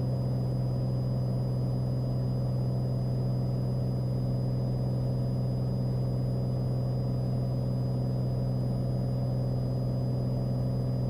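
Steady in-flight drone of a Cessna 182's piston engine and propeller heard in the cabin, even and unchanging, with its weight in a low hum.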